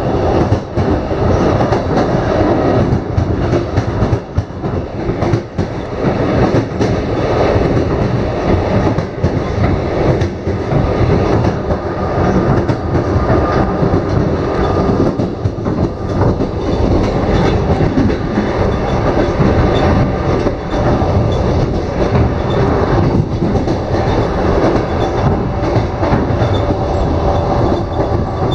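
Passenger train running along the line, heard from inside the carriage: a steady rumble of wheels on rails with frequent clicks and knocks from the track.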